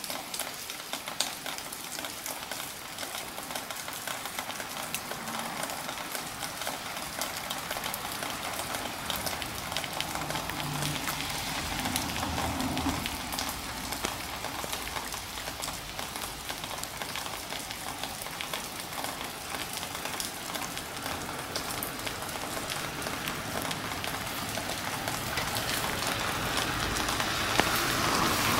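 Light rain falling: a steady hiss with many small drop ticks, growing louder near the end.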